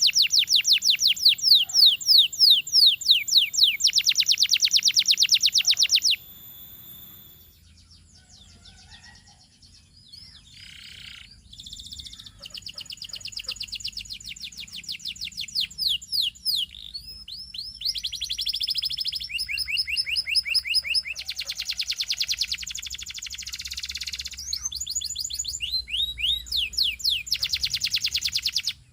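Domestic canary singing in fast trills of repeated down-sweeping notes. The song breaks off for a quieter pause of several seconds about six seconds in, then resumes with varied rolls and trills, and cuts off abruptly near the end.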